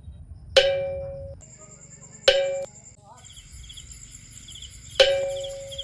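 Three ringing percussion hits on the same note, each struck sharply and fading out, spaced a couple of seconds apart. From about halfway through, a steady high chirping like a cricket starts up underneath.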